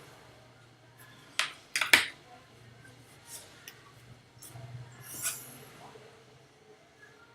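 Small hand tools clicking and tapping on a repair bench: a few sharp clicks, the loudest pair about one and a half to two seconds in, then lighter taps, over a faint steady low hum.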